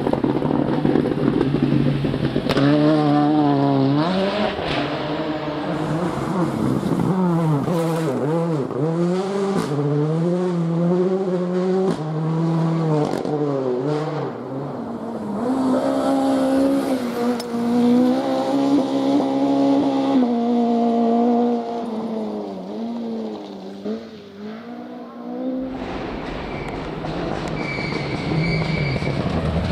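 Rally car engines on a stage: a car's engine revs up and drops repeatedly through gear changes, growing fainter toward the middle, then another car arrives loud about three quarters of the way in.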